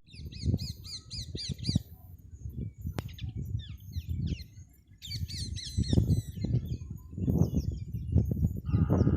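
Parrot chirping in quick runs of rapid repeated high notes, with scattered single calls between, over a low rumbling background noise.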